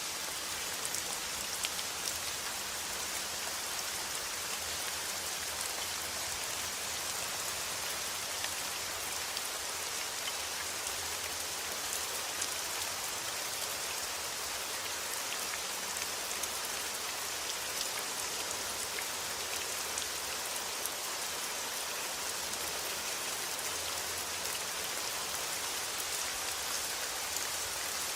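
Steady rain falling: a continuous hiss dotted with the ticks of individual drops.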